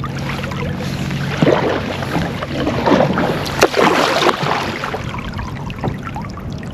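Water splashing and sloshing around a kayak, with a handful of irregular splashes in the middle, over a low hum that fades after the first second or so.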